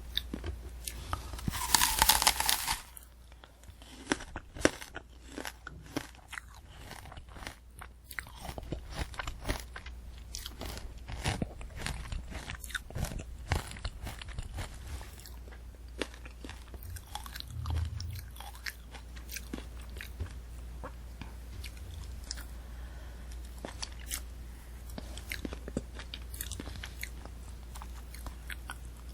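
Close-miked eating of a candy apple: a loud crunching bite about two seconds in, then steady chewing full of small crackles and crunches from the hard candy shell and apple.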